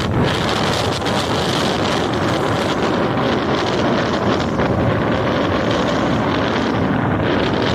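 Rough sea surf washing ashore steadily under strong wind, with wind buffeting the microphone.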